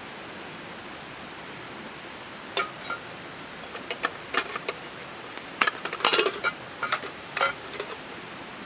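Metal cookware clinking and knocking: a run of sharp, slightly ringing clinks starting a little over two seconds in, busiest about six seconds in, over a steady hiss.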